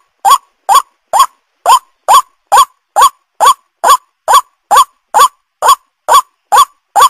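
White-breasted waterhen (ruak-ruak) lure call: short, identical rising calls repeated about twice a second at a steady pace, with clean silence between them, as in a looped recording.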